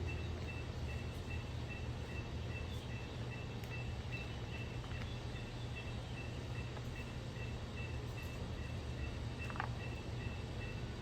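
Outdoor ambience: a steady low rumble with a thin, high tone pulsing evenly throughout, and one short call about two seconds before the end.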